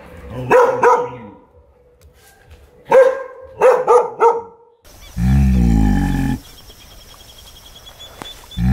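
Animal calls: a few short, sharp yaps in two quick groups, then, after a cut about five seconds in, one long, low call lasting over a second, with another starting at the very end.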